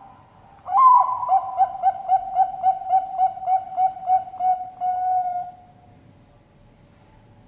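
Zebra dove (Bangkok perkutut) singing: a loud opening coo about a second in, then a quick, even run of about a dozen rolling coos, roughly four a second, finishing on one longer held note.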